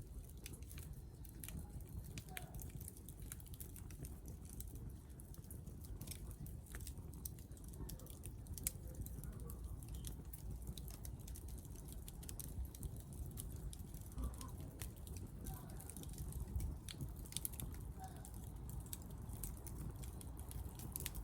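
Wood fire crackling, with a scatter of small, sharp, irregular pops over a low, steady rumble.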